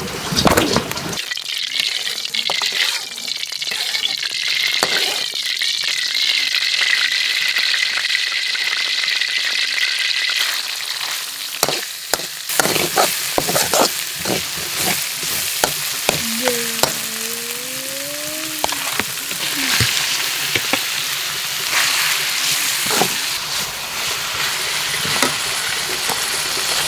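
Food sizzling and crackling as it fries in a pan, with scattered sharp clicks and clatters.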